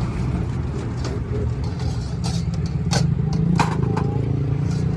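Motor vehicle engine running steadily with a low rumble, with a few sharp metallic clinks about two, three and three and a half seconds in.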